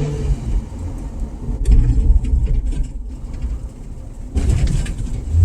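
Car running, heard from inside the cabin: a steady low rumble of engine and road noise, with a few short clicks about two seconds in and a louder stretch near the end.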